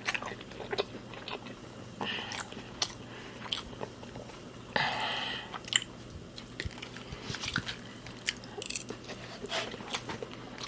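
Close-up mouth sounds of a person eating a mouthful of shrimp and grits: chewing with scattered small clicks and lip smacks, and a brief breathy burst about five seconds in.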